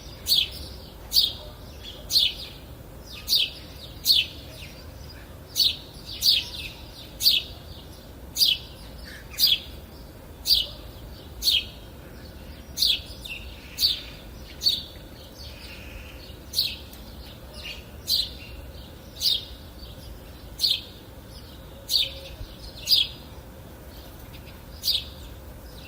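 A songbird repeating a short, sharp chirp that drops quickly in pitch, roughly once a second, over faint steady low background noise.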